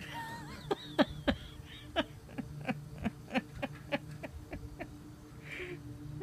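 Home air conditioning unit running with a steady low hum. A run of sharp clicks or knocks sounds over it, about three a second for roughly four seconds and fading toward the end, and a brief wavering high tone is heard at the very start.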